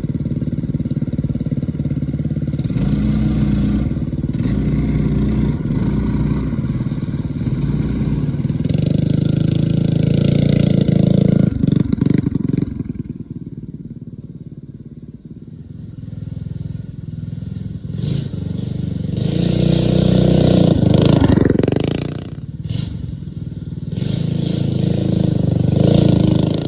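Mini bike's stage 1 Predator 212 single-cylinder four-stroke engine revving under riding load, rising and falling in pitch. It gets loud twice, about a third of the way in and again past the middle, easing off in between.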